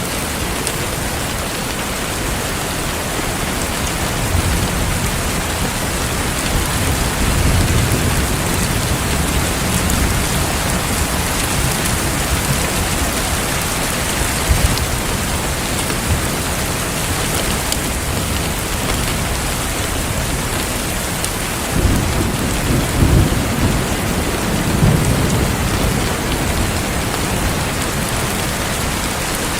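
Heavy rain falling steadily, with low rumbles of thunder swelling a few seconds in and again in the second half.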